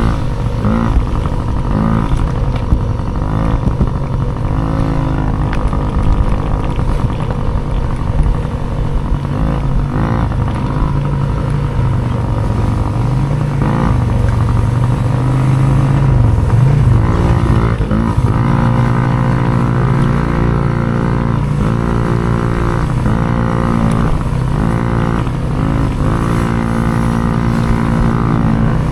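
Small racing dirt bike engine being ridden hard, its pitch climbing and dropping again and again as it is throttled up and shifted through the gears.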